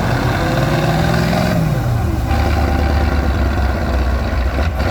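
Heavy off-road truck's diesel engine working hard in sand: the engine pitch climbs over the first second and a half, drops about two seconds in, then holds steady at lower revs.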